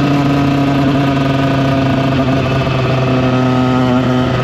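KTM EXC 125's two-stroke single-cylinder engine running under way at a nearly steady engine note, dropping slightly in pitch about three seconds in.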